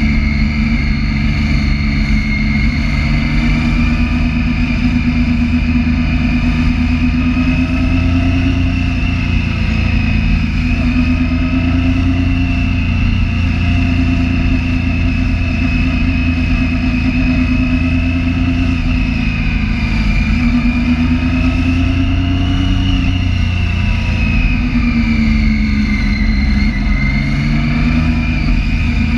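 Triumph Street Triple 675's inline three-cylinder engine running steadily while filtering through slow traffic, its pitch rising and falling gently with small throttle changes and dipping briefly about three-quarters of the way through.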